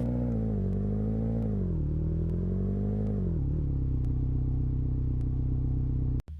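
Low, buzzy droning tone in the track, its pitch sliding down in steps for the first three and a half seconds, then held steady until it cuts off abruptly just before the loud drop.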